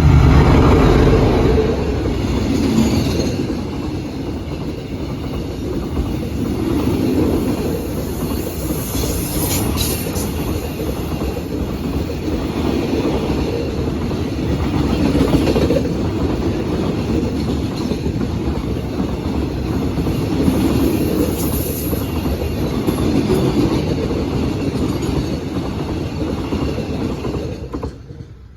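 Train running along the track, a steady rumble of wheels on rails with gentle swells, fading out near the end.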